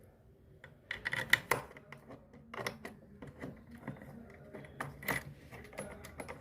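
Irregular metallic clinks and taps of nuts and a spanner on the mounting of a new top-load washing machine clutch assembly as it is bolted in, starting about a second in.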